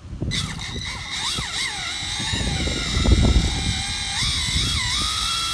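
Brushless motor and ESC of a front-wheel-drive RC drag car, a 4.5-turn motor on a Hobbywing XR10 Pro, whining as the throttle is blipped. The pitch rises and falls repeatedly over a steady high tone, and cuts off suddenly near the end.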